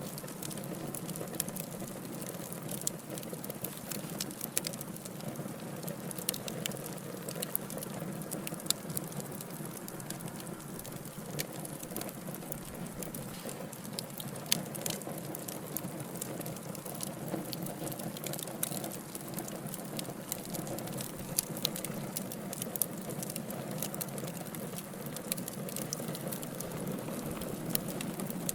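Wood fire of burning logs crackling: frequent sharp pops and snaps over a steady low rush of the flames.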